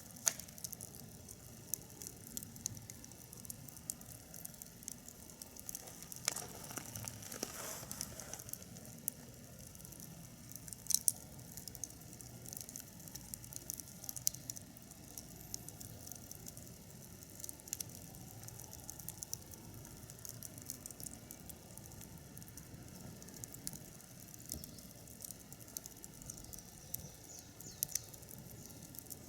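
Wood fire burning in a fire stand, crackling with scattered sharp pops and a brief rush of hissing noise about six seconds in.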